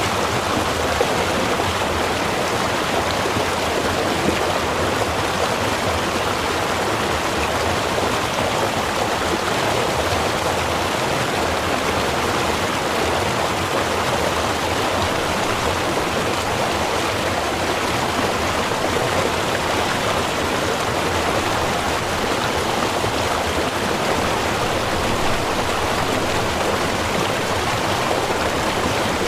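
Small river running over stones, a steady even rush of flowing water.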